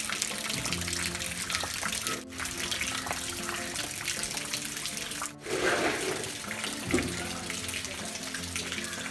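Background music over a steady rush of water, briefly cut twice.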